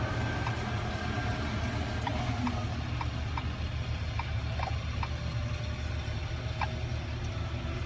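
Caterpillar 323 excavator's diesel engine idling with a steady low hum, with a string of light, irregular ticks over it.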